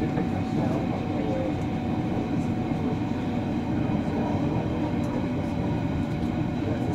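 Berlin S-Bahn electric train running at speed, heard from inside the carriage: a steady rumble of wheels on rails with a faint steady whine over it.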